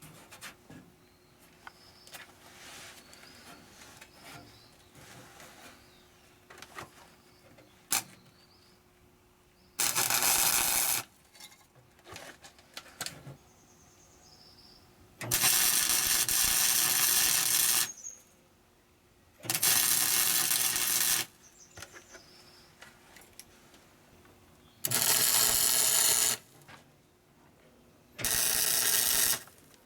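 Welder laying short welds on car body sheet metal: five crackling bursts of one to three seconds each, starting and stopping abruptly, with quiet clicks and handling sounds in between.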